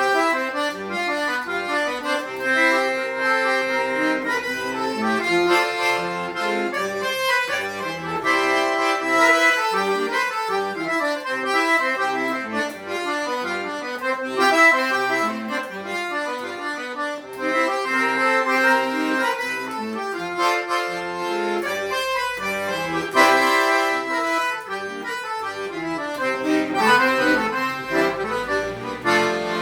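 Accordion playing a lively instrumental tune of quick, short notes and runs over chords, with no singing.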